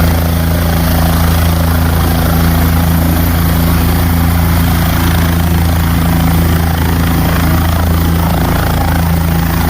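Helicopter running with a loud, steady low hum that does not change.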